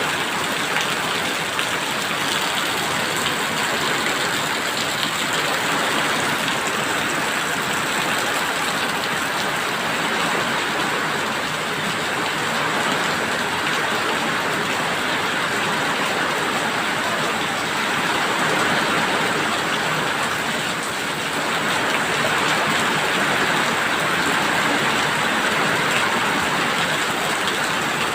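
Steady heavy rain falling and pattering on surfaces, a constant hiss without a break.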